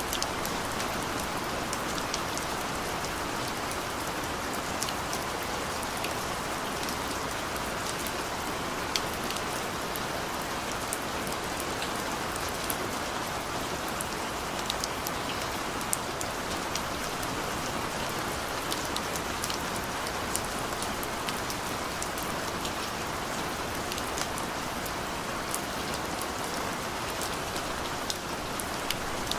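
Steady rain falling, a constant hiss with many sharp individual drop ticks scattered through it.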